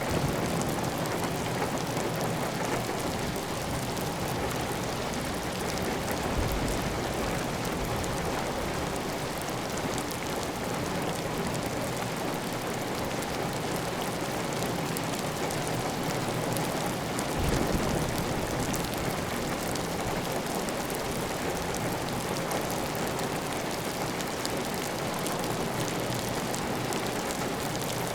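Steady heavy rain pattering on a clay tile roof, with water running off the roof edge. Brief low swells about six and seventeen seconds in.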